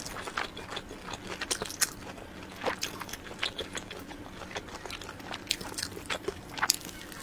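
Chewing and biting of soft cream-filled sponge cake roll: irregular wet mouth clicks and smacks.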